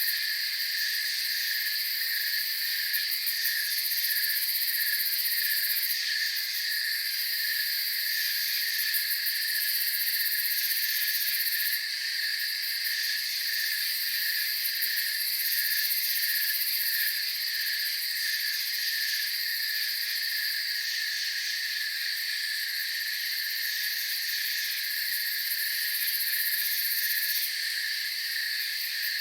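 Night insect chorus of crickets: several high steady trilling layers, with a lower chirp pulsing evenly about one to two times a second throughout.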